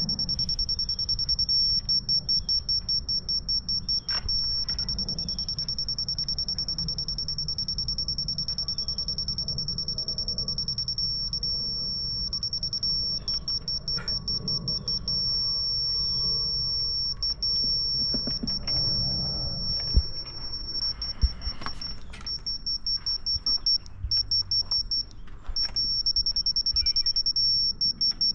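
A single high-pitched tone, switching back and forth between a continuous note and rapid beeping, over a low steady rumble.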